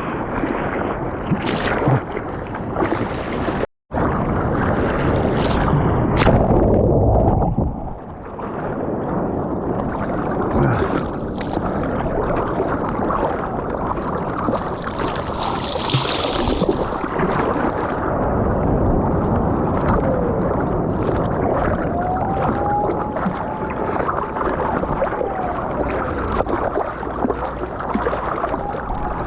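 Sea water splashing and churning close to an action camera's microphone while a surfer is in the water, with wind noise, and a short break of silence about four seconds in.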